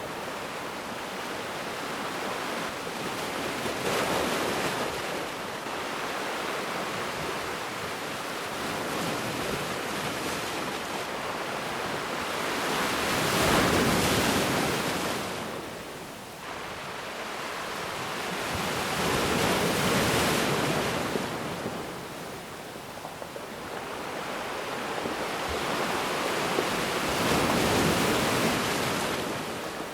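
Ocean waves surging and washing ashore in four slow swells that rise and fall, the loudest about halfway through.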